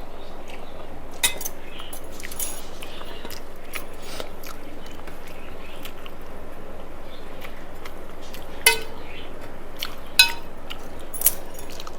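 Dishes clinking while someone eats: four sharp clinks, one about a second in and three in the last four seconds, some ringing briefly, over a steady background hiss.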